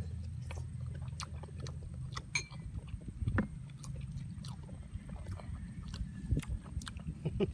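Two people chewing food with scattered small smacks and clicks, over a steady low rumble.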